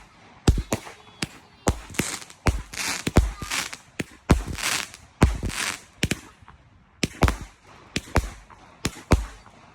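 Fireworks going off in a rapid, irregular series of sharp bangs, several a second, with crackling hiss between them.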